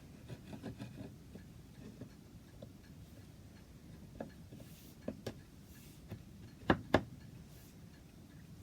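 Quiet handling of wooden chair parts: scattered soft taps and small clicks, with two sharp wooden knocks in quick succession about seven seconds in.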